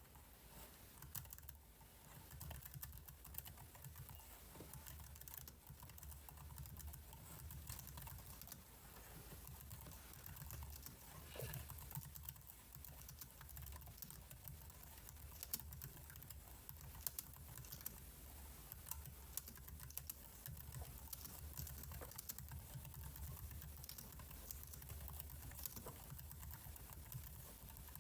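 Computer keyboard keys clicking irregularly and faintly, a few presses at a time, over a low steady hum.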